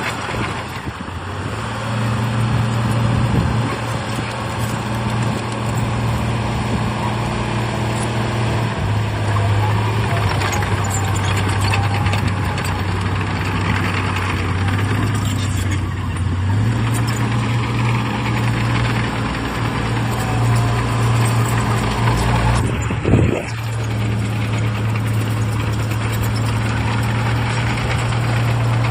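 Heavy diesel engine of earthmoving equipment running steadily, its pitch dropping about nine seconds in and rising again a little past halfway, with a brief loud burst about three-quarters of the way through.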